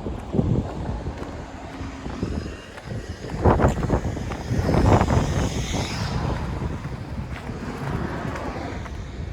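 Strong sandstorm wind buffeting the microphone in heavy, rumbling gusts, with louder surges about three and a half and five seconds in.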